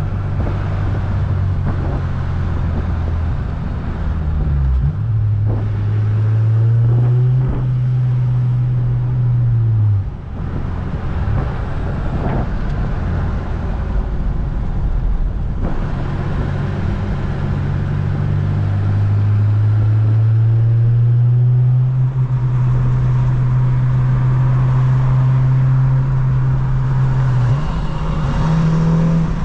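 8th-generation Honda Civic Si's 2.0-litre four-cylinder engine and exhaust under light acceleration in traffic: a steady drone whose pitch climbs slowly, falls away about ten seconds in, then climbs again and steps up near the end.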